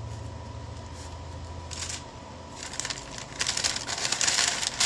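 Plastic sandwich bag crinkling and rustling as a sandwich is slid into it. There is a brief rustle just before two seconds in, then steadier crinkling through the second half.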